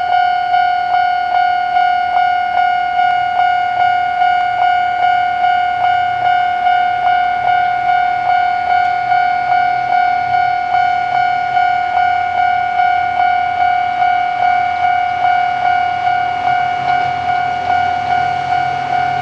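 Railway level-crossing alarm ringing: one pitched tone struck again about three times a second, steady throughout.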